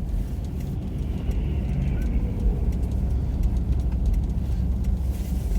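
Steady low rumble of a car's engine and tyres heard from inside the cabin while it creeps along a snow-covered road.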